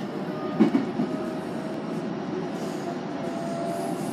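Electric commuter train running, heard from inside the carriage: a steady rumble with a few sharp clatters from the wheels in the first second.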